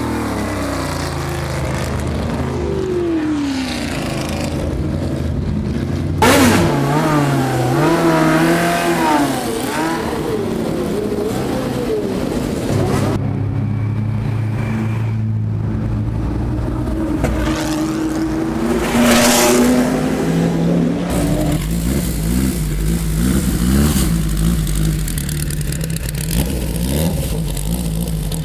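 Historic racing cars' engines running hard and passing at speed. The engine notes rise and fall through gear changes and drop in pitch as each car goes by. The sound changes abruptly three times, as one car or group gives way to the next.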